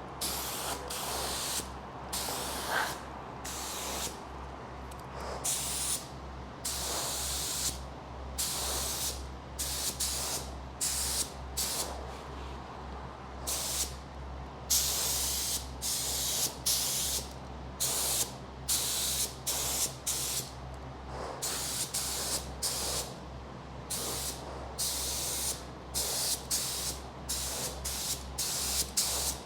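Compressed-air paint spray gun hissing in short bursts, about one a second, as epoxy primer is sprayed onto a truck frame in passes. A steady low hum runs underneath.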